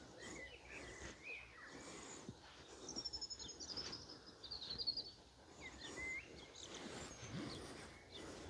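Faint birdsong: short whistled, gliding notes, with a fast high trill from about three to five seconds in, over a steady faint background hiss.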